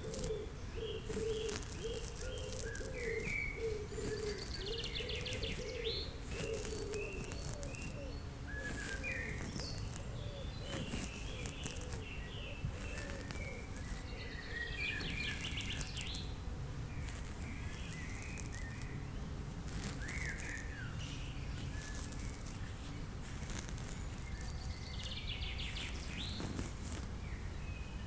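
Recorded nature ambience of birdsong: small birds chirping on and off throughout, and a dove cooing repeatedly for the first several seconds, over a steady low background noise.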